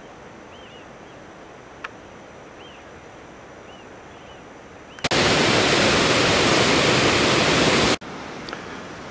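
Waterfall, rushing water. A faint steady rush for about five seconds, then a much louder rush that starts and stops abruptly and lasts about three seconds, then a moderate steady rush.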